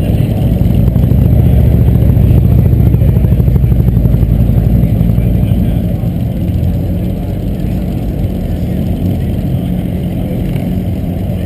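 Car engine running with a low, pulsing exhaust note, swelling over the first few seconds and easing off slightly after about five.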